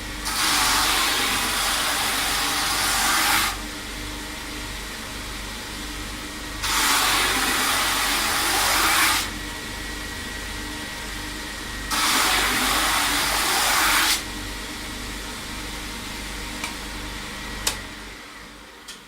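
Edge-grinding belt machine running with a steady hum, and three hissing grinding passes of about two and a half seconds each as an edge is pressed against the belt; two sharp clicks near the end.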